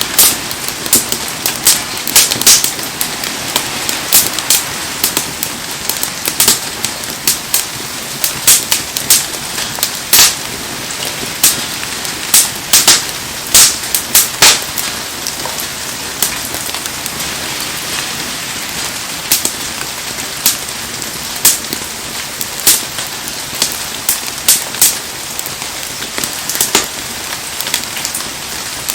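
Heavy rain falling steadily, with a wood bonfire crackling through it: many sharp, irregular pops, often in quick clusters, louder than the rain.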